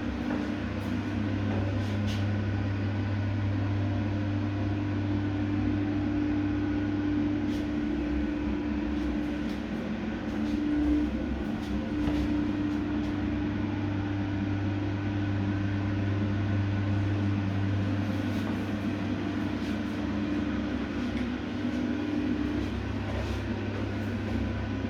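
A steady low mechanical hum with a constant droning tone, with a few faint ticks over it.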